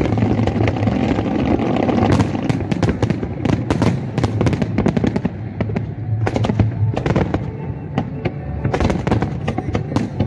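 Aerial fireworks display: a dense, continuous run of bangs and crackles over a low rumble.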